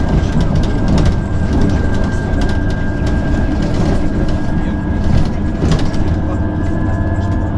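Inside an electric bus on the move: steady low road and body rumble with a thin, even electric whine from the drive. A few short rattles and knocks come through, the clearest about five and six seconds in.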